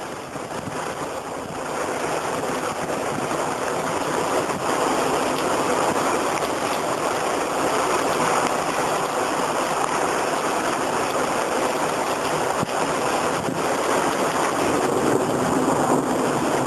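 Heavy rain and gusting wind of a passing squall line: a steady rushing noise that builds over the first couple of seconds, then holds.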